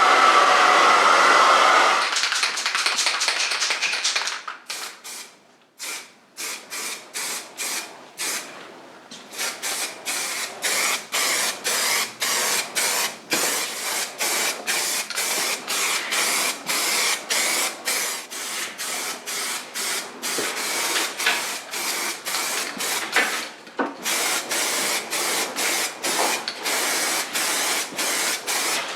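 A steady rushing hiss that stops about two seconds in, then metal engine casings being scuffed by hand with 600-grit abrasive: quick, even back-and-forth strokes, about two a second, with a short pause in between, keying the surface for primer.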